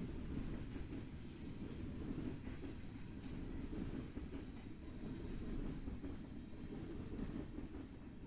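A train rolling along the rails, a steady low rumble of its cars that never lets up.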